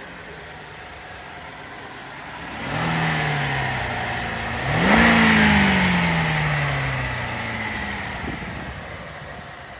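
Car engine idling, then revved twice: a short rise about two and a half seconds in and a bigger one about five seconds in that falls back slowly to idle. A high, thin squeal from the engine's drive belt comes in with the second rev and fades as the revs drop, the sign of a slipping belt.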